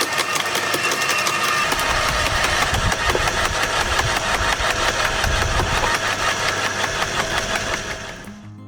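Engine-driven garden wood chipper running with a loud, fast mechanical rattle, with a heavier low rumble in the middle stretch. The sound fades out near the end.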